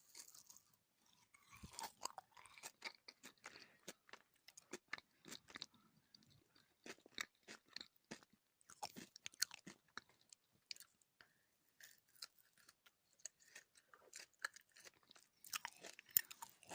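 Close-miked chewing of soft fruit jelly candy: wet, sticky mouth sounds made of many small irregular clicks and smacks.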